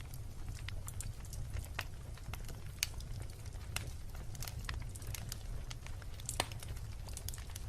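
Wood bonfire burning, with irregular sharp crackles and pops over a steady low rumble; two louder pops stand out, about a third of the way in and near the end.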